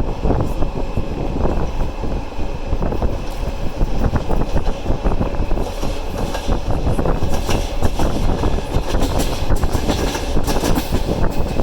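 Passenger train running on the rails, heard from aboard, with a steady rumble and wheels clicking over rail joints. The clatter and rattling grow denser and brighter about halfway through.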